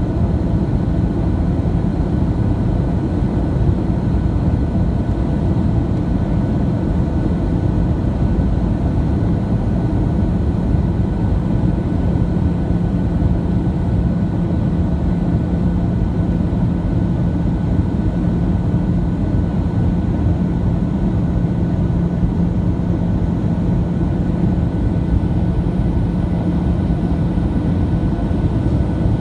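Steady cabin noise inside a Boeing 737-700 in flight: the CFM56 jet engines and the airflow over the fuselage make a constant low rumble. A steady hum rises over it from about twelve seconds in and fades near the end.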